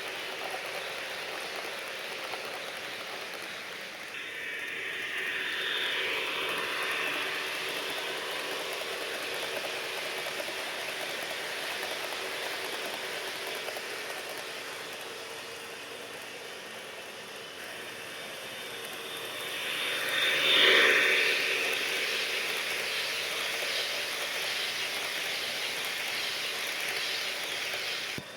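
HO-scale model train with a GP40-2 locomotive running on its track, with steady wheel and rail noise and the locomotive's DCC sound. It swells as it passes close twice: once about four seconds in and more loudly about twenty seconds in.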